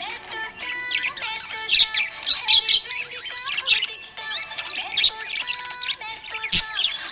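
Small pet parrots chirping and chattering, many quick overlapping calls throughout. A sharp click about six and a half seconds in.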